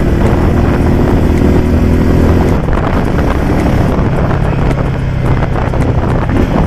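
Motorcycle engine running while riding, with heavy wind noise on the microphone; the engine note drops about two and a half seconds in and settles lower.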